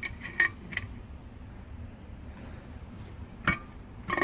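Light metallic clicks and clinks from hands working the carburetor linkage and parts in the engine bay of a carbureted V8, with the engine off: a few small ticks at first, one sharper knock about three and a half seconds in, and a quick cluster of ringing clinks at the end.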